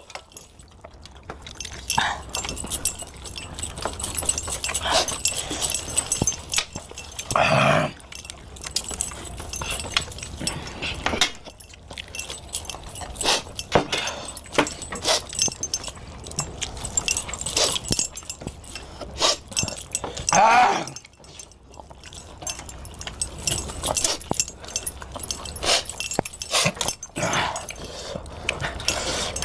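Close-up chewing and crunching of chicken leg pieces: a dense run of irregular wet clicks and smacks. Two short pitched whining sounds come about a third of the way in and again about two-thirds in.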